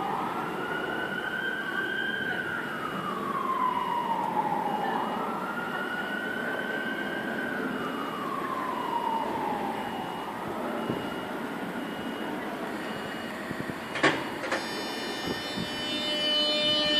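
Emergency vehicle siren wailing, rising and falling slowly, with two full sweeps over about ten seconds before it fades away. Near the end there is a sharp knock, then a steady whine as a train comes in.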